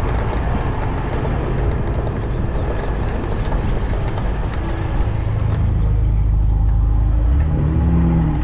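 Road traffic heard from amid the flow: a large vehicle's engine running close by, getting louder from about halfway, its pitch rising and falling briefly near the end.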